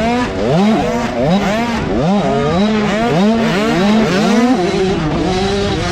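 Motocross bike engine revving in quick repeated surges, a little over two a second, as the throttle is worked through whoops, settling to a steadier note near the end. Other bikes' engines can be heard behind it.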